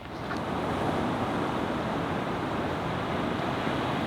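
Steady rushing of surf along a shore, mixed with wind on the microphone.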